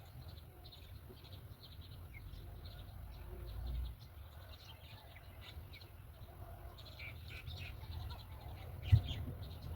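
Bird chicks in a nest chirping over and over in short, high notes, with a low rumble underneath and one sharp thump near the end.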